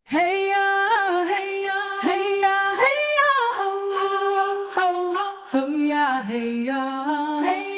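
An unaccompanied woman's voice sings long, wordless held notes as a chant-like opening. The pitch steps lower about two-thirds of the way through.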